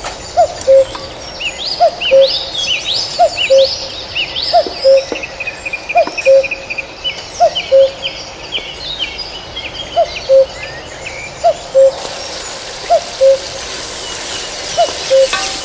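Birds chirping and twittering, with quick rising whistles, over a low two-note call repeated evenly about every three-quarters of a second.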